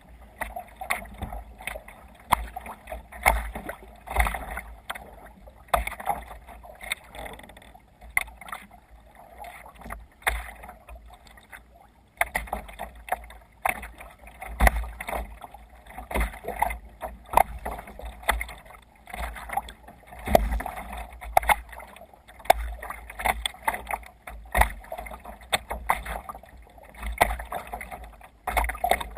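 Water slapping and splashing against a sailing kayak's hull as it runs through waves, in uneven, irregular surges.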